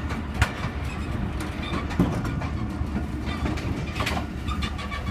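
Passenger train running along the track, heard from on board: a steady low rumble with a few sharp knocks as the wheels pass over rail joints.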